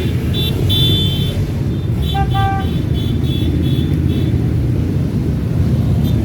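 Many motorcycle engines running together as a parade rolls past, with short horn beeps sounding several times and a lower horn tooting about two seconds in.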